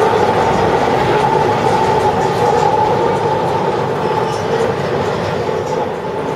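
Electric rack-railway (cog) train pulling away, a loud continuous rumble with a steady whine running through it.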